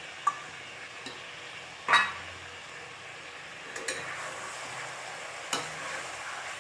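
Chicken curry sizzling in a pan while a ladle stirs it, knocking against the pan five times; the loudest knock comes about two seconds in.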